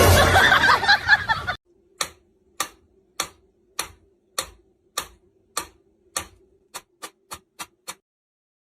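A loud noisy burst lasting about a second and a half, then a run of sharp ticks, about one every 0.6 seconds and coming faster near the end, over a faint steady hum.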